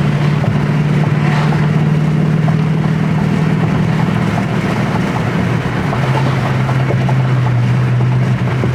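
Dodge Charger Scat Pack's 392 Hemi V8 drone heard from inside the cabin while driving. The steady engine note drops in pitch about six seconds in as the revs fall.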